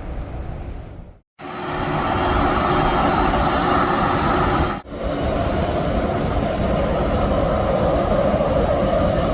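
Jet aircraft engines running: a steady loud rush with faint steady tones, broken by two abrupt cuts, about a second in and near the middle.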